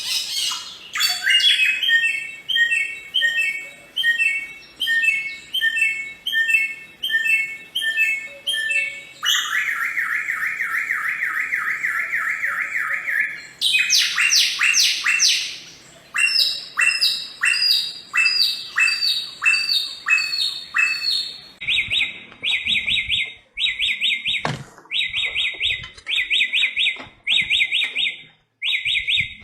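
Bare-throated whistler (samyong) singing a long, varied song. It changes type several times: clear notes repeated about twice a second, then a fast trill, a run of notes stepping down in pitch, and finally short rapid rattling phrases repeated about once a second.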